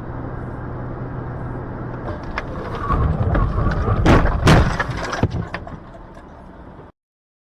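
Car road noise, then a vehicle collision: a rising rush of noise and two loud impacts close together about four seconds in, with crunching dying away before the sound cuts off.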